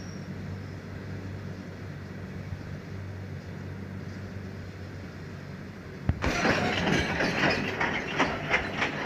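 Goods train on Indian Railways track: a steady low hum, then about six seconds in the wagons come past close by with a sudden loud clatter of wheels knocking over the rail joints.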